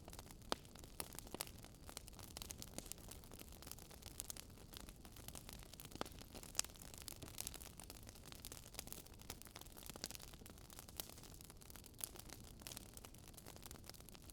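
Crackling wood fire: a soft steady hiss broken by many sharp, irregular pops and snaps.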